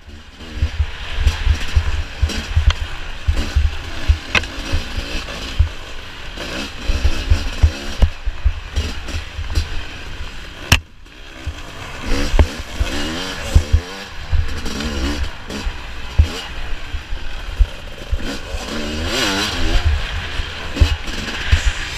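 Off-road dirt bike engine revving up and down hard while racing over rough ground, with low wind buffeting and occasional knocks.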